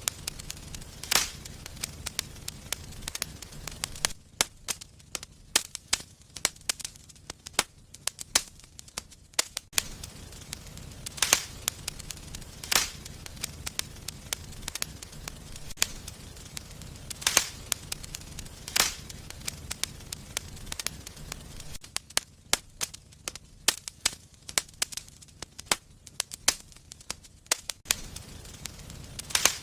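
Wood fire in a fireplace crackling, with irregular sharp pops, a few of them much louder, over a low steady rumble of the flames that drops away twice for several seconds.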